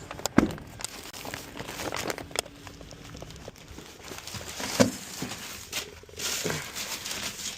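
Scattered handling noise: rustling with a few sharp knocks, the loudest a little before the five-second mark.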